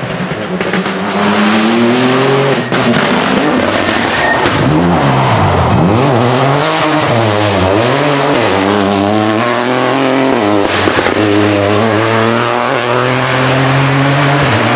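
Rally car engine revving hard along the stage, its pitch climbing and dropping again and again through gear changes and lifts off the throttle.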